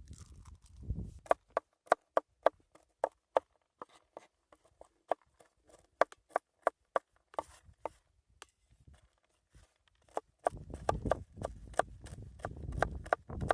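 Knife chopping food on a wooden cutting board, with steady sharp knocks about three a second. Near the end it gives way to a denser, lower rustling clatter.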